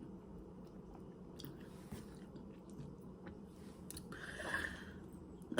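Popping candy in a milk chocolate bar crackling faintly in the mouth: a few scattered tiny clicks over soft chewing, with a short soft hiss about four seconds in.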